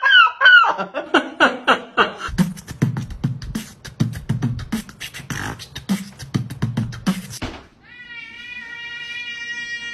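Beatboxing: a fast run of sharp mouth clicks over low kick-like thumps. About eight seconds in it gives way to a steady held tone.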